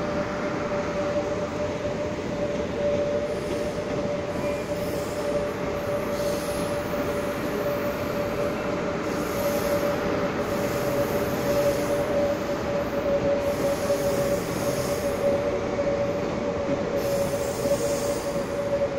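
Eight-car Taiwan Railways EMU500 electric multiple unit pulling into the station, with a steady squeal held on one pitch over the rumble of the cars.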